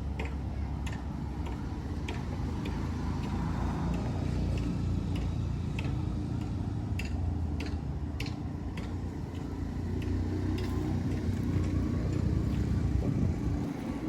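Burning grass and branches crackling with scattered sharp pops, over a steady low rumble.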